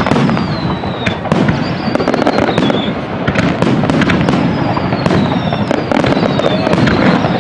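Fireworks display: a dense, continuous run of bangs and crackling over a low rumble, with a few thin whistles that fall in pitch.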